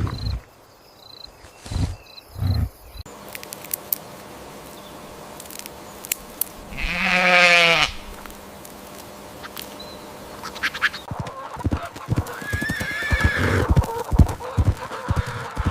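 A farm animal gives one loud, wavering bleat lasting about a second, some seven seconds in. Low thumps come before it. From about eleven seconds on there are many sharp clicks and knocks, and a shorter, higher-pitched call.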